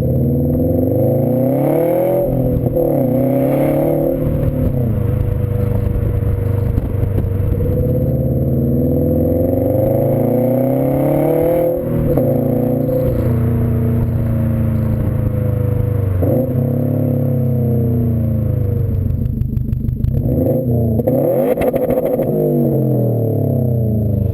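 2015 Subaru WRX STI's turbocharged 2.5-litre flat-four running through an aftermarket exhaust under hard acceleration. The engine note climbs steadily through each gear and drops sharply at each upshift, four or five times.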